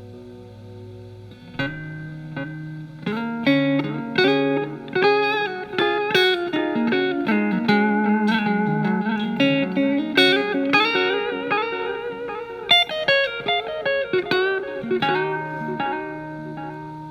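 Fender Telecaster with single-coil alnico pickups played through a Marshall MG15FX amp's clean channel with its delay effect on. A held note fades out, then picked single-note melodic lines follow, ending on a held chord near the end.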